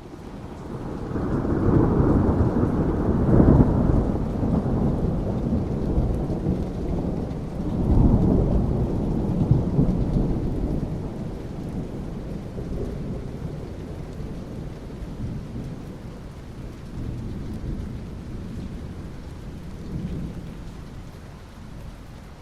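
Rolling thunder over steady rain. The low rumble swells in over the first couple of seconds, peaks around three to four seconds in, surges again about eight seconds in, then slowly dies away, leaving the rain hiss.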